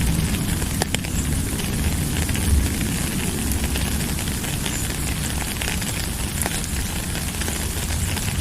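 Steady heavy rain, a dense hiss with many small droplet ticks and patters over a low rumble, with a sharper drip or tap about a second in.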